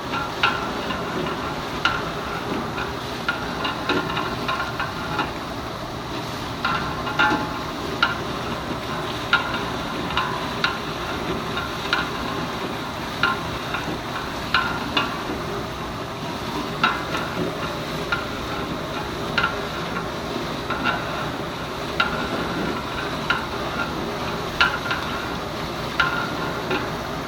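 A ladle stirring chicken gizzards in masala in a large pot, knocking against the pot with a ringing clack every second or two, over a steady sizzle of frying.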